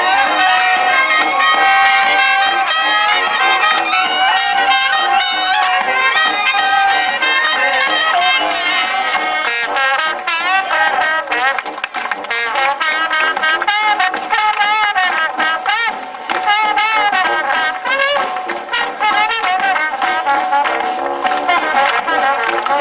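Live band music with brass instruments, trumpets and trombones, playing a melody with vibrato.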